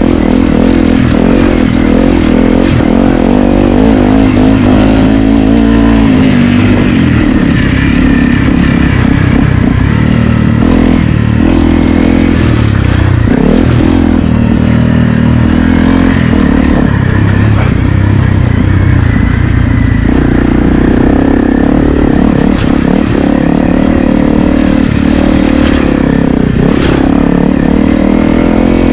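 Honda CRF250L's single-cylinder four-stroke engine being ridden hard on a dirt track, its revs rising and falling with the throttle and gear changes. It eases off briefly about six seconds in and again about twenty seconds in.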